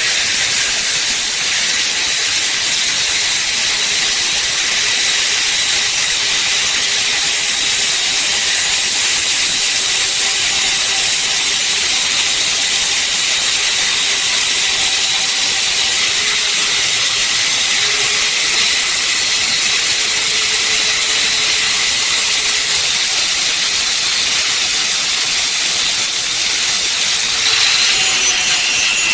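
A loud, steady hiss, like air rushing, that runs on without a break, with a faint steady hum beneath it; its tone shifts shortly before the end.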